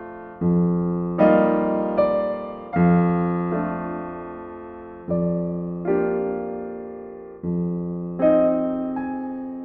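Slow, gentle solo piano music: soft chords struck about every second or so, each left to ring and fade before the next.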